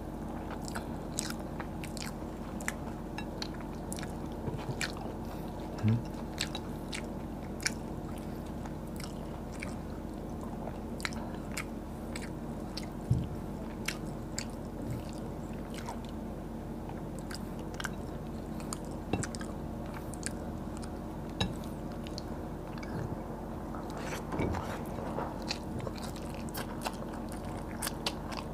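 Eating fried tilapia by hand: chewing and biting with frequent small crisp crunches and clicks as the fish is picked off the bone and eaten. A steady low hum runs underneath.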